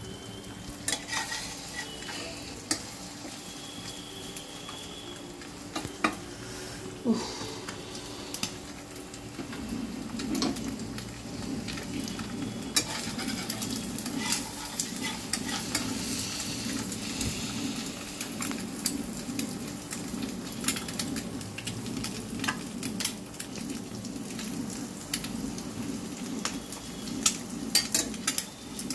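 Eggs and sliced onion frying in hot oil in a nonstick pan: a steady sizzle with frequent sharp crackles, growing louder about a third of the way through.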